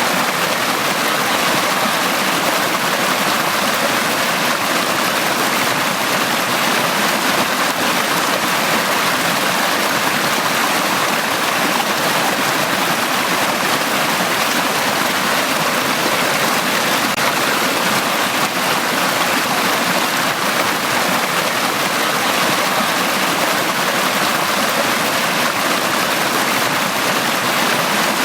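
Valley stream flowing steadily: a continuous, even rush of running water.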